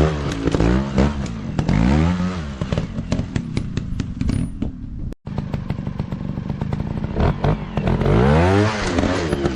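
Four-stroke dirt bike engines revving up and falling back again and again, with clattering of the bikes over rough ground. The sound breaks off briefly about halfway through.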